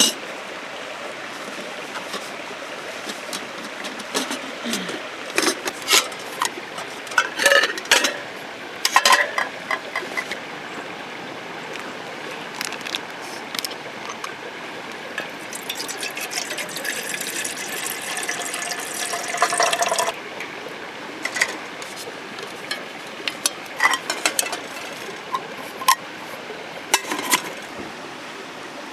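Camp cookware and utensils clinking and knocking in a scatter of short strokes over a steady hiss of rain. About halfway through, liquid is poured into a pot for several seconds, its pitch rising slightly as it fills, and it stops abruptly.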